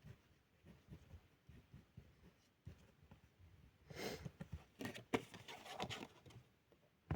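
Felt-tip pen drawing on paper: faint scratchy strokes, with a few louder ones from about four seconds in.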